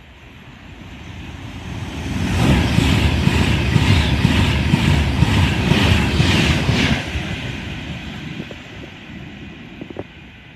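Class 390 Pendolino electric train passing through at high speed: a rush of wheel and air noise that swells over a couple of seconds, holds loud with a regular beat about twice a second as the coaches go by, then fades away.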